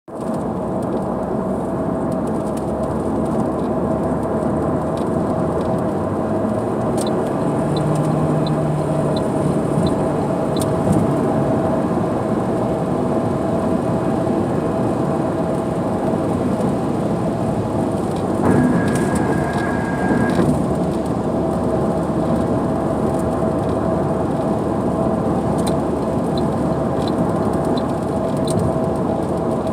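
Heavy rain and road noise of a car driving through a downpour: a steady, dense wash with a low hum underneath. Two short runs of light ticks come through the rain.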